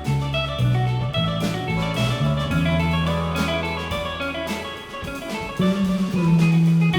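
A live band playing instrumental music: guitar over drums, with low sustained notes moving every second or so.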